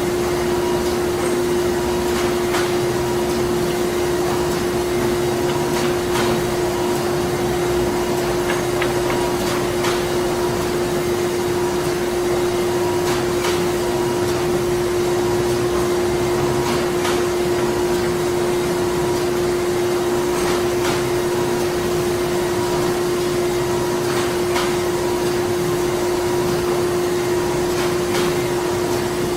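Printing-plant machinery running steadily: a constant hum at one pitch over a broad mechanical rush, with a faint tone that pulses on and off and scattered light clicks.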